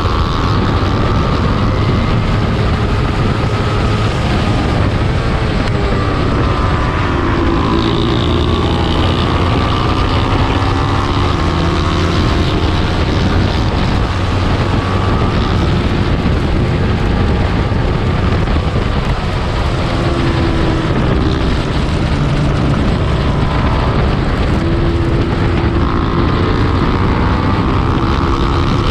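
Small-displacement racing motorcycle engine running hard, its pitch climbing and dropping again and again as it accelerates, shifts and slows for corners, over a steady rush of wind noise.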